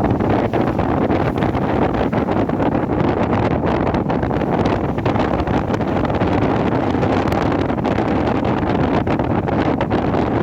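Wind buffeting the microphone from a moving train, over the train's steady running noise, with frequent small clicks and rattles throughout.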